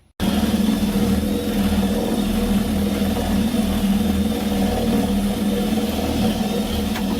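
Power drill running steadily under load, boring a hole through the wall for the water line: a loud, even motor hum with a hiss of cutting over it, starting abruptly.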